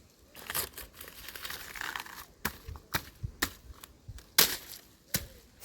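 Irregular crackling and rustling, broken by several sharp clicks at uneven intervals; the loudest click comes about four and a half seconds in.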